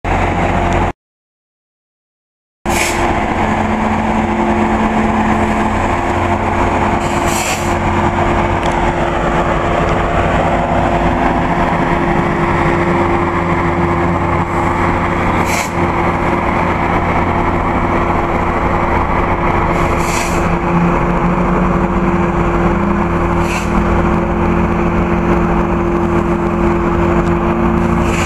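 Passenger train passing close by: a steady, loud rumble of wheels on rail with a steady hum, and a few sharp clacks several seconds apart. It opens with a brief burst of sound, then about two seconds of silence before the train noise starts.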